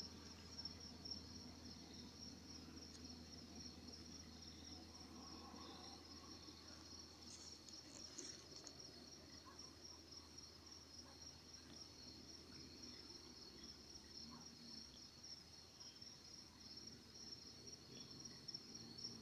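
Faint, steady, high-pitched chirring of insects such as crickets, continuing unbroken over a low background hum.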